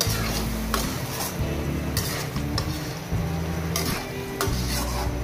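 Chicken livers sizzling in a hot pan while a slotted spatula stirs and scrapes them, with a scraping stroke about once a second.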